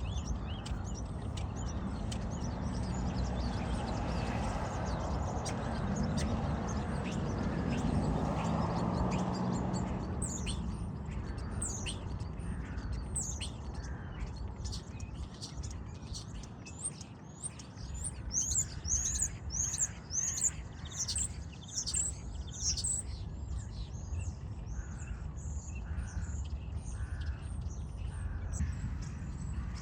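Common starlings singing: a busy string of short, sharp, falling whistles and clicks. It becomes clear about ten seconds in, over a steady background rumble, and is thickest a few seconds later.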